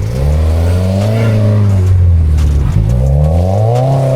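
A car engine revving hard, its pitch climbing, dipping briefly about two and a half seconds in, then climbing again, as the car is driven at full throttle in a drift.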